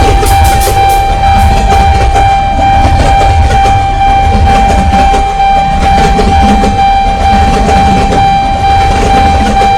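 Freight train rumbling heavily, with one loud steady high-pitched tone held over it throughout. A few faint sharp knocks sound in the first second.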